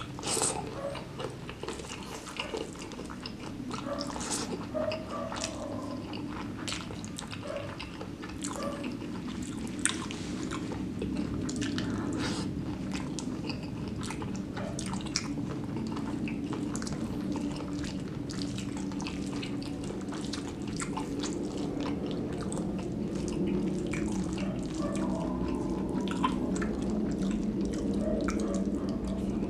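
Close-up chewing and biting of spicy stir-fried squid and petai beans, with many short wet mouth clicks and smacks. Under it, the low drone of an airplane passing overhead grows steadily louder toward the end.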